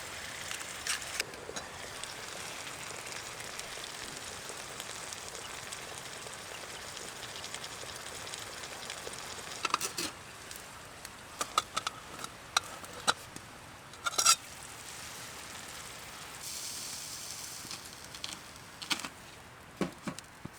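Steady sizzling hiss at a wood-burning tent stove, with sharp crackling pops in clusters in the second half.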